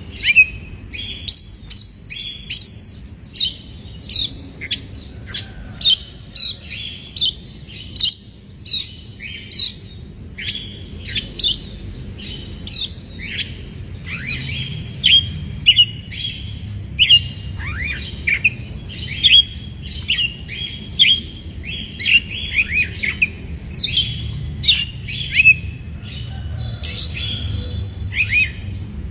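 Oriental magpie-robin calling in a fast series of short, sharp chirps and harsh notes, about two a second, some notes sliding downward in the second half. These are the excited calls of a magpie-robin in breeding condition.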